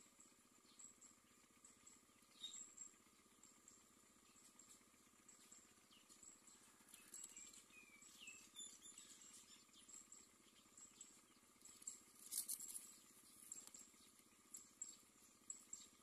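Very faint, scattered short bird chirps and high ticks over near silence, with one sharper click about twelve seconds in.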